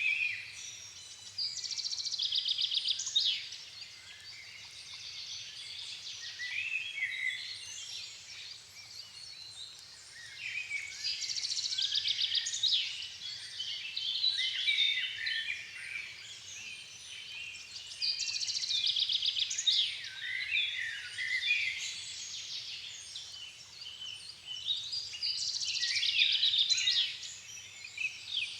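Songbirds singing a dusk chorus in a floodplain forest: several birds' overlapping songs and trills, swelling into loud bouts about every seven or eight seconds with softer calls between.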